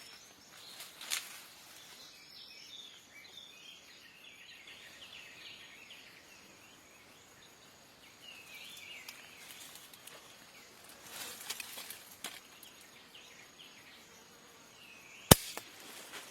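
Small birds chirping in scattered short calls over a faint hiss of insects. A single sharp snap or click stands out as the loudest sound near the end, with a smaller click about a second in.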